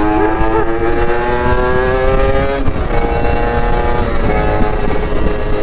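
Two-stroke motorcycle engine running under way, its pitch climbing slowly, with a break in the note about two and a half seconds in. Wind rumbles on the microphone underneath.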